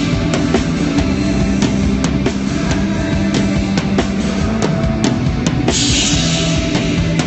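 Rock band playing at a sound check: a drum kit keeps a steady beat of about two hits a second over sustained bass and guitar notes, with a cymbal wash near the end.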